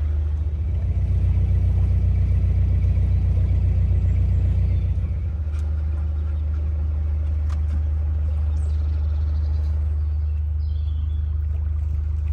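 Narrowboat engine running steadily at tick over, a low rumble, a little louder for the first few seconds.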